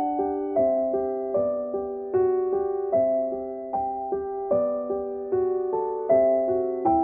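Background music: a gentle solo piano piece, with notes and chords struck at an even pace a little more than once a second, each dying away before the next.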